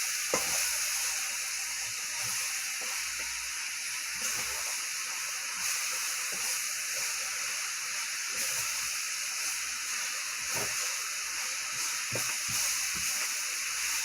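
Food sizzling steadily in hot fat in a pan, with a few light taps and scrapes of a stirring utensil.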